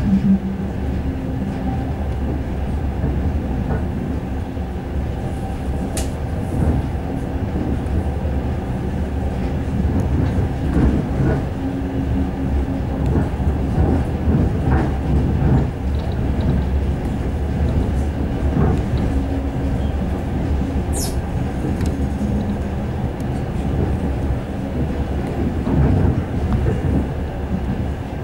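Suburban passenger train running along the line, heard from inside the carriage: a steady low rumble with faint irregular knocks from the wheels. There is a sharp high click about six seconds in and a short high squeal about twenty-one seconds in.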